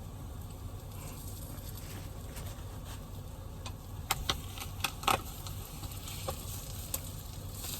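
Omelet frying in a pan, sizzling steadily over a low steady hum, with a few sharp pops or clicks about four to five seconds in.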